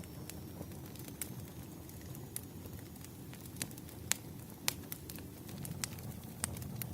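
Burning firewood crackling: irregular sharp pops and snaps over a low, steady rumble of the flames, with the loudest pops a little past the middle.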